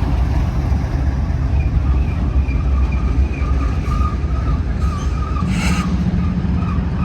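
Freight train cars rolling past with a steady low rumble of wheels on rail and faint, wavering high squeals from the wheels. A short hissing burst comes about five and a half seconds in.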